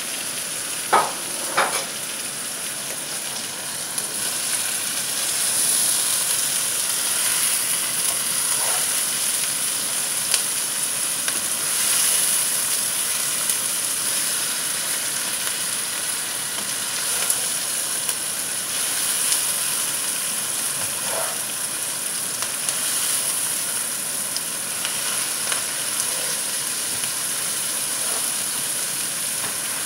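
Onions, garlic, chili and ginger sizzling steadily in a frying pan, with two sharp knocks about a second in and a few light clicks of the spatula against the pan later on.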